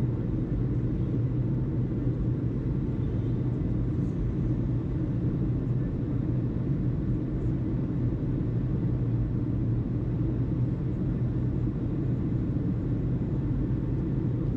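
A steady low rumble with an even hum in it, unchanging throughout.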